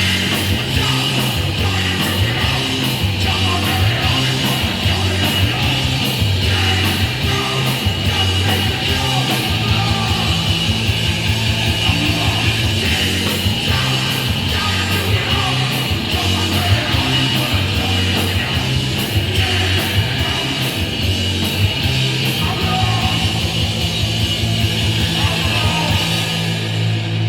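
Hardcore punk band playing live: distorted electric guitar, bass and drums driving steadily, with fast, regular drum hits.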